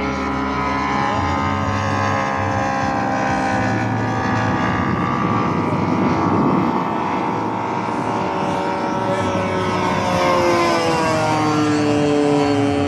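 Saito 450 three-cylinder four-stroke radial engine of a giant-scale RC AT-6 Texan model running with its propeller, its pitch shifting as the plane moves, then falling near the end.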